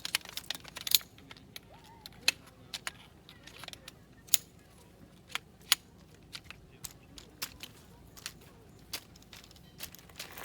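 Irregular sharp clicks and taps of hard objects being handled, one or two a second, with rustling during the first second.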